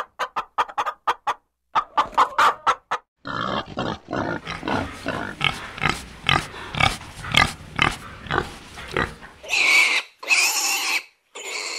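Chickens clucking in short, quick notes for about three seconds, then domestic pigs grunting in a quick, uneven series, with louder, harsher calls near the end.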